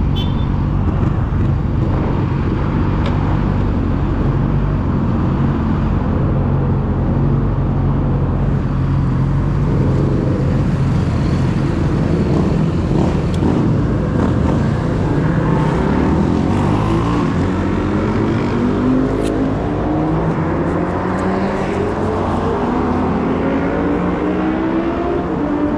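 Yamaha YZF-R6 inline-four with a full-system aftermarket exhaust running at a steady low engine speed, then its pitch rises gradually through the second half as it accelerates.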